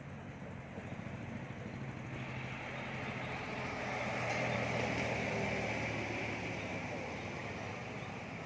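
A motor vehicle passing by, swelling to a peak about halfway through and then fading, over a steady low hum.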